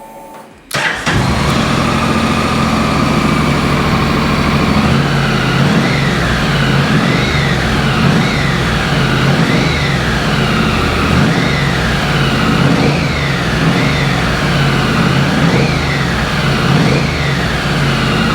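Honda NC750X's 745 cc parallel-twin engine starting up about a second in and running, with the revs rising and falling again and again as the throttle is blipped.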